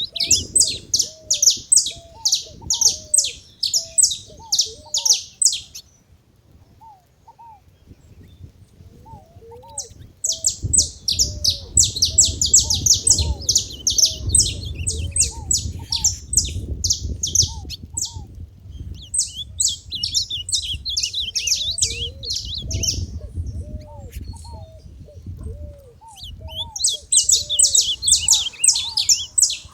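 Saffron finches giving rapid runs of high, sharp chirps, with a gap of a few seconds about six seconds in and a shorter one near the end. A lower, repeated arching call sounds beneath them.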